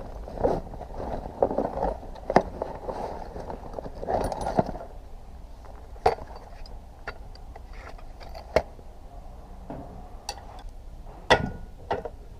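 Scattered metal clinks and knocks of hand tools working the kickstart lever off a scrapped motorcycle, irregular and several seconds apart, with rustling handling noise in the first half.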